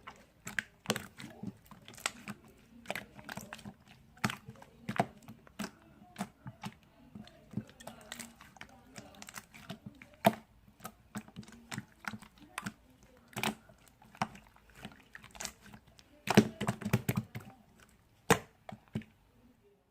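Irregular sharp clicks and taps, a few to several a second, with a dense cluster about sixteen seconds in.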